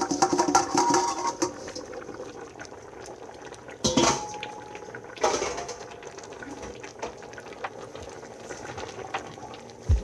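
Pot of chicken soup bubbling at the boil, with small clinks in the first second or so and two louder clatters about four and five seconds in.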